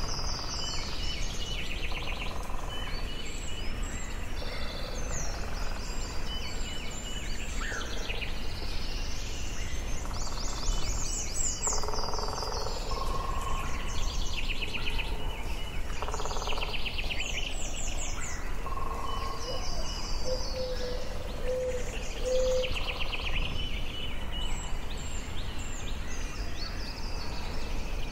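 Forest birdsong: several songbirds chirping and trilling in overlapping short phrases, over a steady low background hiss.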